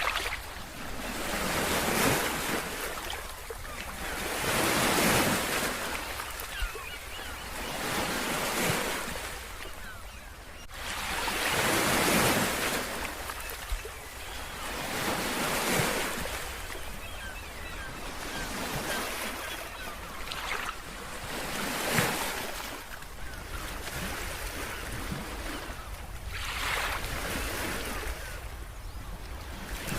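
Ocean waves washing onto a shore, the surf swelling and breaking in repeated surges every three to four seconds.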